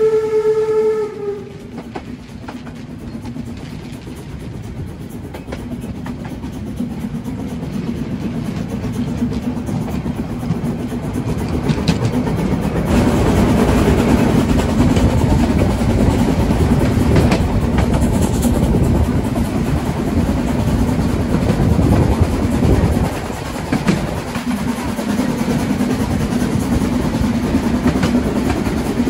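A steam locomotive's whistle cuts off about a second in, followed by the steady rumble of the train running, which grows louder from about halfway through.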